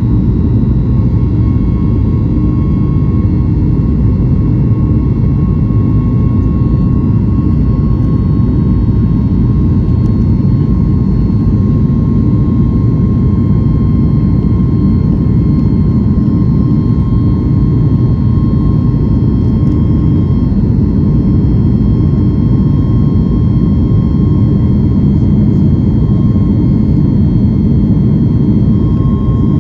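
Steady engine and airflow noise of a Boeing 737 MAX 8 jet heard from inside the passenger cabin, a constant low rumble with a faint hum over it.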